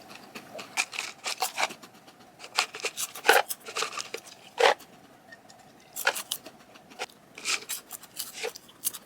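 Close-up chewing of crunchy chocolate- and green-tea-coated popcorn: a run of irregular crisp crunches.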